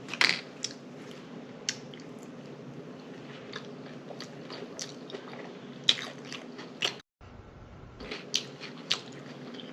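Close-miked chewing of a mouthful of chicken taco salad, with wet smacking and scattered sharp clicks. The audio cuts out for just under a second a little past the middle.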